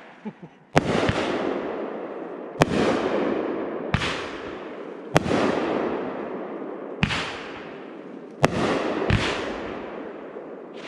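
Fireworks show: aerial shells bursting in a run of seven sharp bangs, about one to two seconds apart, each trailed by a fading rush of noise.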